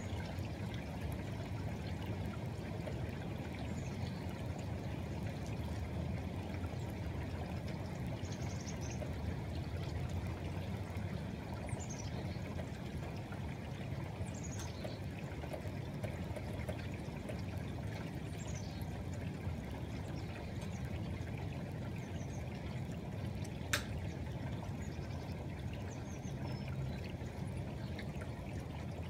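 Steady rain with water pouring and trickling, a few faint high chirps over it, and one sharp click late on.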